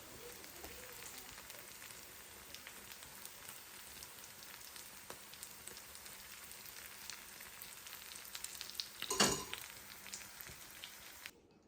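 Food frying in a pan: steady sizzling with scattered crackles, and a louder burst of crackling about nine seconds in. It cuts off abruptly near the end.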